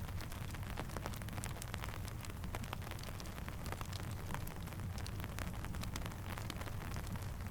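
Steady rain mixed with a crackling campfire: a constant hiss with many sharp, irregular crackles and ticks over a low, steady rumble.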